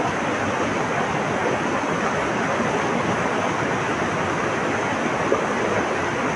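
Steady rushing of flowing water, an even wash of sound with no birdsong standing out.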